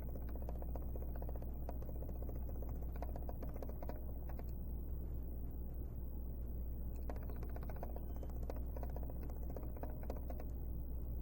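Steady low electrical hum, with faint music in two stretches and scattered small clicks.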